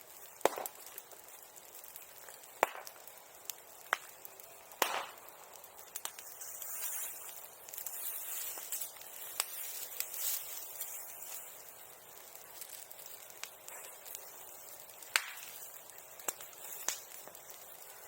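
Bonfire burning damp wood, crackling with a few sharp, loud pops spread through and a stretch of hissing in the middle.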